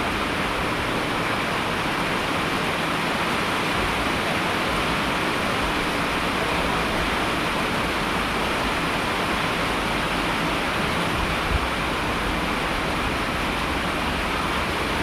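Heavy rain falling steadily: an even, unbroken rushing hiss.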